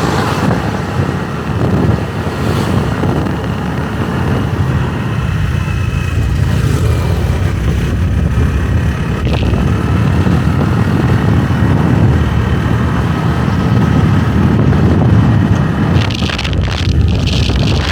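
Motorbike engine running on the move, with wind noise on the microphone.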